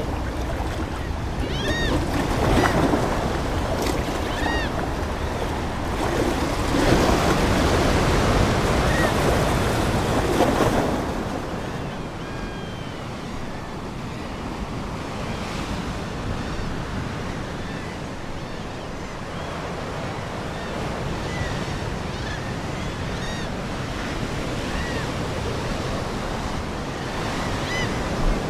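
Ocean surf washing onto a shore: breaking waves surge louder for the first ten seconds or so, then settle into a softer, steady wash. Seagulls call repeatedly over the waves in short, arched cries.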